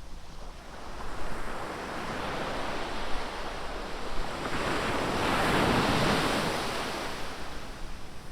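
Ocean surf: a wave builds and breaks, the rush of water swelling to its loudest about five to six seconds in, then easing off as it washes up the beach.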